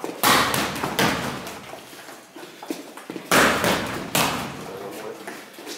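Strikes landing on a BOB torso training dummy: four heavy thuds in two pairs, each with a short rattling decay.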